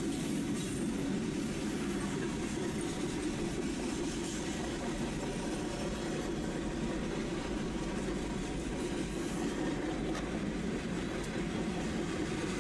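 Railroad cars rolling past, a steady rumble of wheels on the rails.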